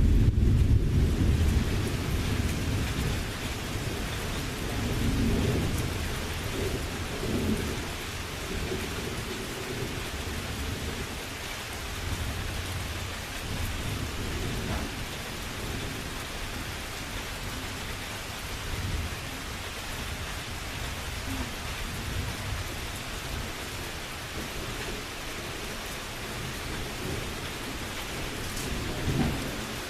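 Thunderstorm: steady rain with rolling thunder. A low rumble is loudest at the start and dies away over the first few seconds, and fainter rumbles return a few times later.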